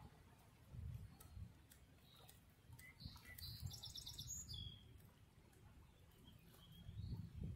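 Near silence, with a bird chirping faintly in a short quick trill about three to four seconds in, over a faint low rumble.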